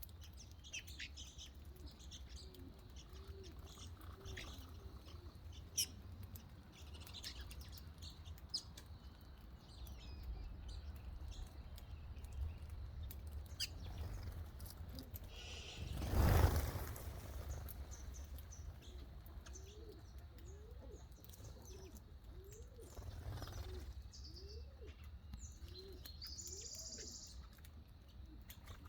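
Small birds chirping and tweeting in short, scattered high calls, with a brief loud rustling burst about halfway through and a run of short low calls in the second half, over a steady low hum.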